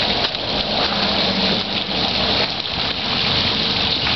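Fountain water splashing and falling steadily, a continuous loud rushing hiss.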